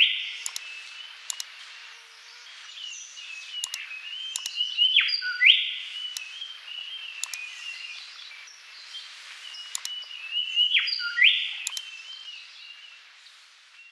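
Birds chirping in quick, high calls, with a brighter sweeping call near the start, about five and a half seconds in and about eleven seconds in, the same pattern coming round again each time.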